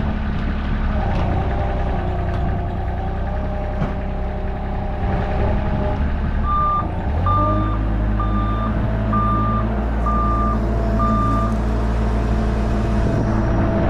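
Excavator's diesel engine running steadily; about halfway in its note steps up in load. A backup alarm then beeps six times, about once a second.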